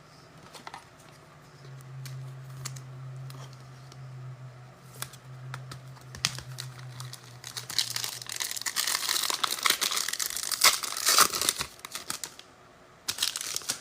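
Foil wrapper of a football trading-card pack being torn open and crinkled in the hands, loudest in the last few seconds, after some light handling clicks over a low steady hum.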